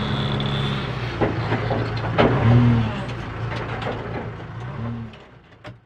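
Diesel engine of a heavy machine running steadily, with a few sharp knocks and clanks in the middle, fading away near the end.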